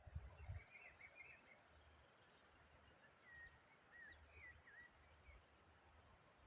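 Faint songbird song: a short warbled phrase near the start, then a few slurred whistled notes mid-way. Low rumbling noise runs underneath, strongest in the first half-second.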